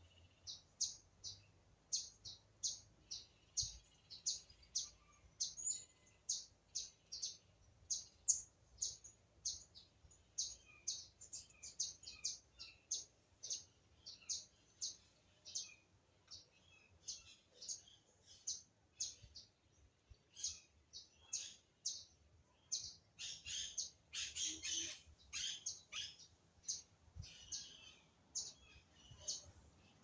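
A small bird chirping over and over, short high chirps about two to three a second, with a denser, louder flurry of calls a little after the middle.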